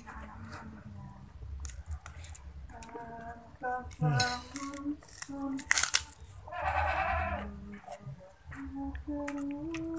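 A man eating mushrooms: chewing and small mouth noises with a few clicks, broken by short wordless hummed sounds and a long breathy exhale a little past the middle.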